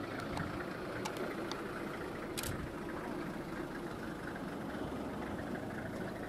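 Safari vehicle's engine idling steadily, with a few faint clicks about one and two and a half seconds in.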